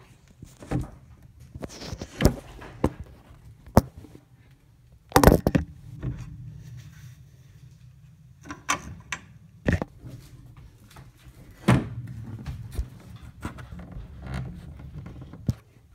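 A string of separate knocks and thumps, the loudest a short cluster about five seconds in, over a low steady hum.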